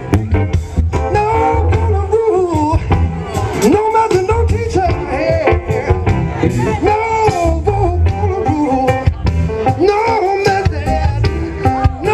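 Live band music: a steady bass and drum groove under a wordless lead melody that bends up and down.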